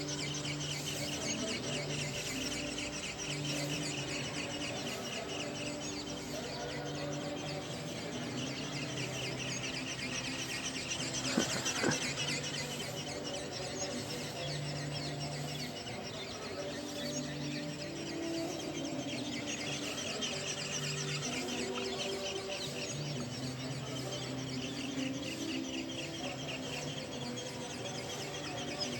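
Outdoor bird chorus: many small birds chirping continuously, with chickens clucking. A low steady hum starts and stops every second or two.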